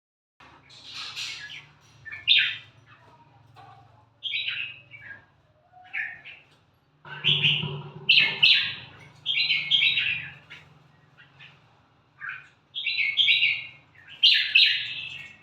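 Red-whiskered bulbul chick giving begging chirps in short, irregular bursts that come thicker in the second half, over a faint low hum.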